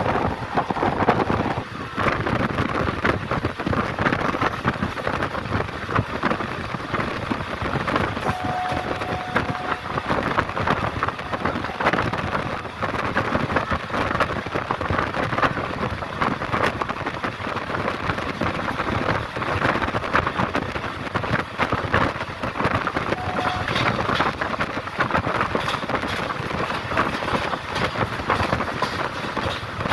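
A train running on the track at high speed: a steady rush of noise full of rapid rattling and clatter, with two faint short tones partway through.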